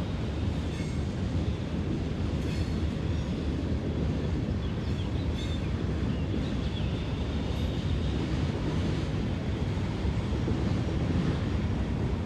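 Freight train of autorack cars rolling past, a steady low rumble of steel wheels on the rails. Faint high wheel squeals come through about five to seven seconds in.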